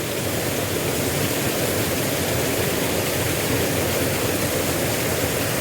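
Steady rush of flowing water in a small river.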